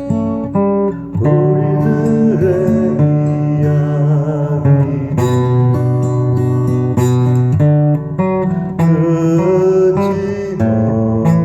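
Acoustic guitar strummed in a steady rhythm, with a wavering melody line over the chords.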